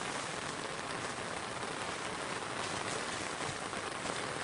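Monsoon rain falling steadily on grass: an even, unbroken hiss.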